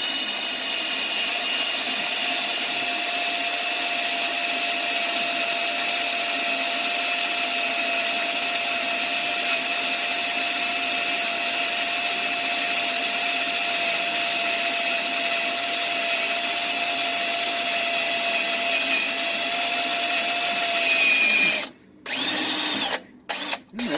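Electric drill running steadily as a dull bit cuts a pilot hole in the car's metal, making chips but cutting slowly. The drill stops about three-quarters of the way through and is triggered briefly twice near the end.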